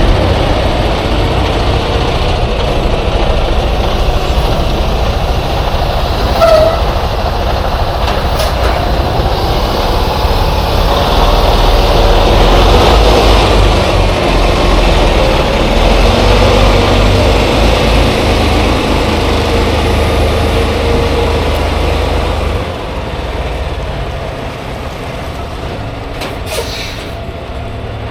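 A heavy vehicle running with a steady low rumble and road noise, which drops in level about 23 seconds in.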